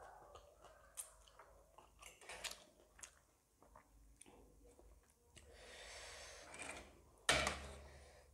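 Close-miked eating sounds: a person chewing a mouthful of noodles, with small wet mouth clicks, and a fork working in the metal plate. A louder sudden sound comes about seven seconds in.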